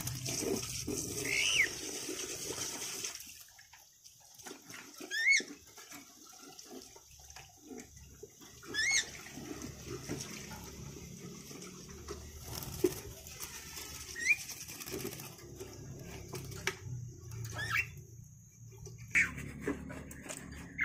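A pet bird giving short, sharp calls, each a quick rise and fall in pitch, about seven spaced a few seconds apart. The bird is agitated and being aggressive.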